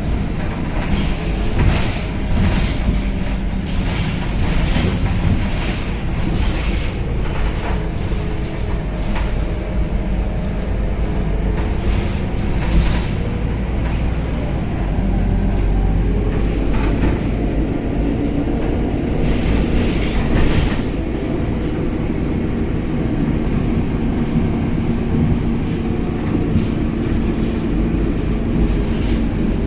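Cabin noise of a Scania K270UB city bus on the move: a steady low engine and road drone, with the engine note rising and falling, and frequent rattles and clatters from the bus body and fittings.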